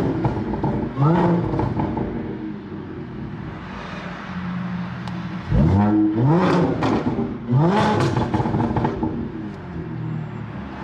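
Audi S4 B8.5's supercharged 3.0 V6 breathing through an AWE exhaust on test pipes, idling with several quick throttle blips that rise and fall sharply, a cluster of them past the middle. The tone is deep, with an echo from being indoors.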